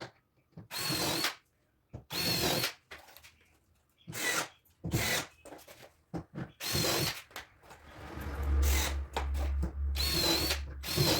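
Power drill driving screws into the MDF back panel of a kitchen cabinet, in about seven or eight short runs of its motor whine, each under a second. A low drone sits under the last few runs.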